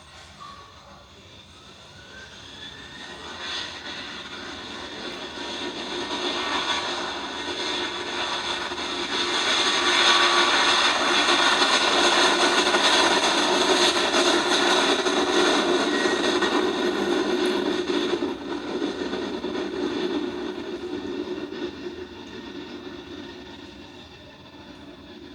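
Jet airliner passing by, its engine noise building to a peak about halfway through and then fading away, with a rising whine early on as it approaches.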